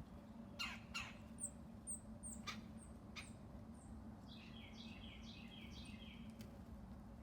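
Songbirds calling and singing: a few sharp downward-slurred notes, a string of very short high notes, then about four seconds in a quick run of repeated notes.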